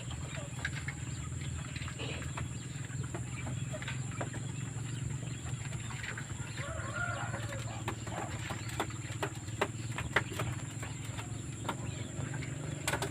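Wild quail, with scattered short taps and scratches and a brief soft call about seven seconds in, over a steady low hum and a faint steady high whine.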